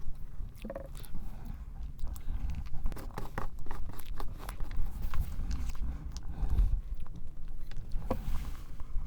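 Close-miked chewing and wet mouth sounds of someone eating strawberry cream cake, with many small clicks scattered throughout.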